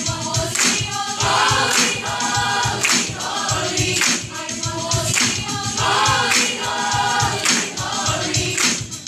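A choir singing a gospel-style song, with a sharp percussive hit about once a second keeping the beat.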